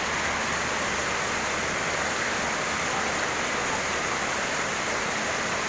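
Heavy rain pouring down steadily: a dense, even hiss that holds at one level throughout.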